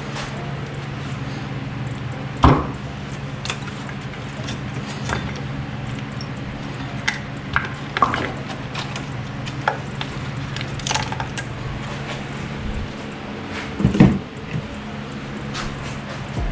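Scattered metallic clinks and knocks of hand tools and small bolts being handled during engine work, over a steady low hum. The loudest knocks come about two and a half seconds in and again near the end.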